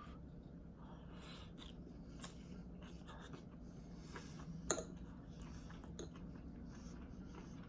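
Faint scraping and rustling of a utensil working rice noodles in a plastic container, with scattered light clicks and one sharp click a little past the middle.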